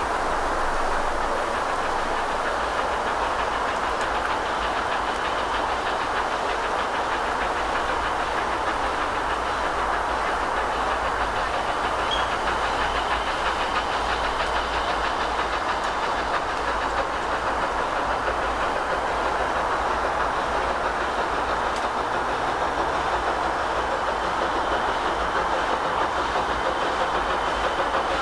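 Heritage railway train running along the track: a steady rolling noise with a low rumble underneath, unchanging throughout.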